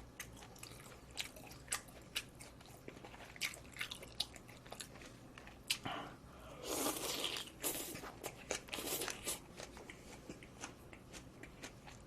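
Close-miked eating: chewing and biting with many small crunches and wet mouth clicks. A louder noisy stretch of a few seconds comes about halfway through.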